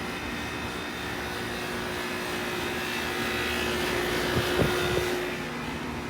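Outdoor air-conditioning condensing unit running in cooling mode: a steady fan rush with a steady hum under it. A few short knocks come about four to five seconds in.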